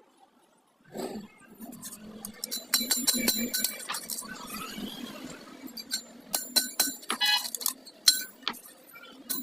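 Clusters of sharp, light metallic clinks and clicks that begin about a second in, the kind made when small metal pieces are handled.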